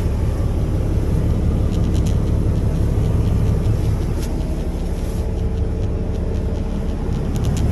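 Semi truck's diesel engine idling: a steady low rumble, with a few faint clicks over it.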